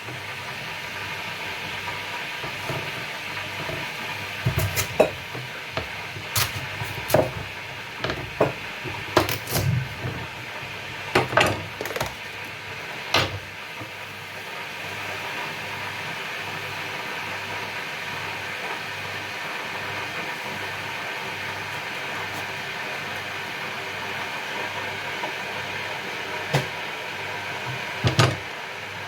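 Kitchen utensils knocking and clinking against a board and pots: a run of sharp knocks over the first half, then two more near the end. A steady hiss runs underneath.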